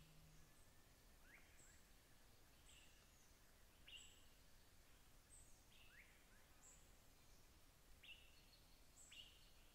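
Very faint natural ambience with a bird giving short, high chirps, some rising in pitch, repeating about once a second.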